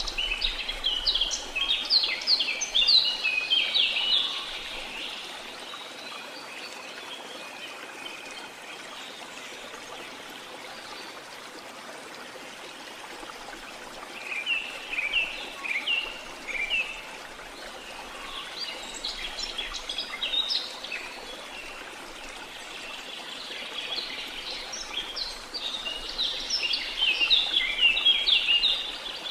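Waterfall rushing steadily, with birds chirping in flurries of quick, high notes: in the first few seconds, a couple of times around the middle, and loudest near the end.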